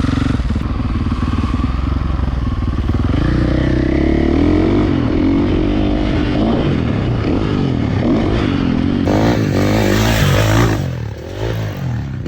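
Dirt bike engine idling, then revved and ridden hard from about three seconds in, its pitch climbing and falling with the throttle. A loud, rough, clattering noise comes near the end before the engine drops back.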